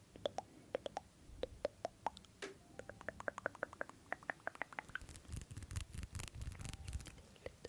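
Close-miked chewing and mouth sounds: many quick small clicks and crackles, growing denser and heavier about five seconds in.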